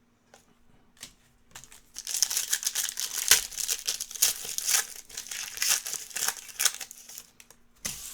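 Foil wrapper of a trading-card pack being torn open and crinkled by hand: dense crackling and rustling for about five seconds, starting about two seconds in.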